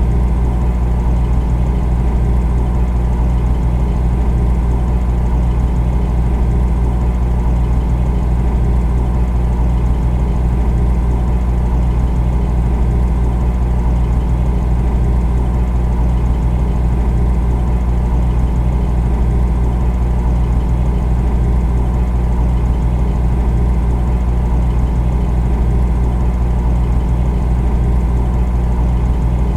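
Refrigerator compressor running: a steady low hum with a faint hiss above it, unchanging throughout.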